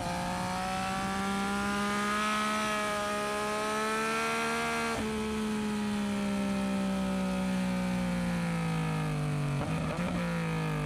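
Yamaha MT-09SP's inline three-cylinder engine through an aftermarket Dominator exhaust, pulling under steady throttle with its note rising slowly for about five seconds. After a brief break the engine note eases down gradually, with a short rough patch near the end.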